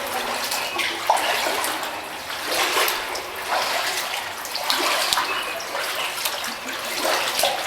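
Kayak paddle strokes: water splashing and dripping off the blades in a run of irregular splashes.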